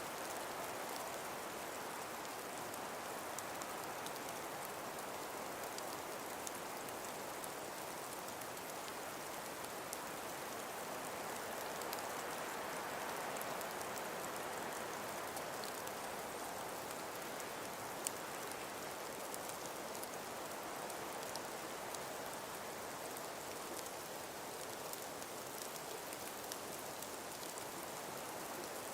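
Winter forest ambience: a steady, even rushing hiss with many light ticks scattered through it, and one sharper click about eighteen seconds in.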